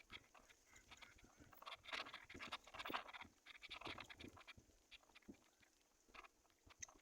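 Faint scratching and rustling: a dense run of small clicks and rustles, busiest from about one and a half to four and a half seconds in, then sparser.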